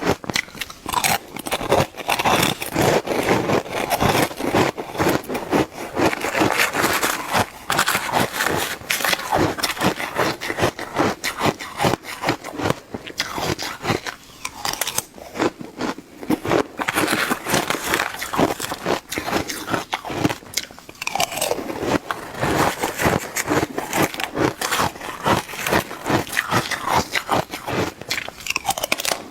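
Shaved ice being bitten and chewed close to the microphone: a dense, continuous run of crisp crunching and crackling.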